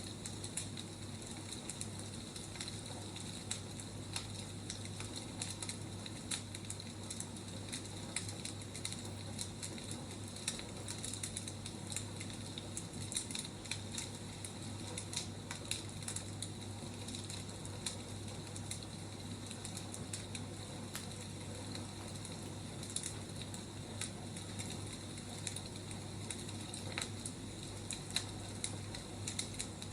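Wood fire burning, with irregular crackles and pops over a steady low hum.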